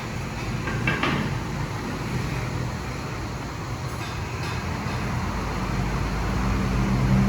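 A motor vehicle's engine running amid road traffic noise, its low hum growing louder near the end. A short high squeak comes about a second in.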